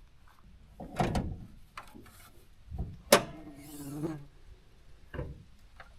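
A few separate clunks and knocks of things being handled. The sharpest comes about three seconds in and is followed by a brief creak.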